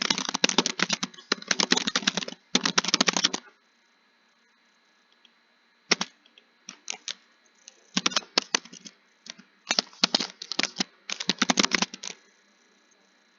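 Typing: rapid runs of key clicks, broken by pauses of a second or more, with a near-silent gap of about two seconds in the first half.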